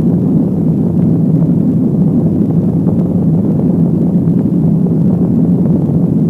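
A loud, steady low rumble of noise with no clear pitch, like a distant roar.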